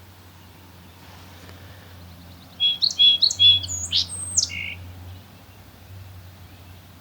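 A tiny songbird sings one loud phrase about two and a half seconds in. It goes as a quick run of repeated high notes, then higher slurred notes, and ends on a lower buzzy note, about two seconds in all.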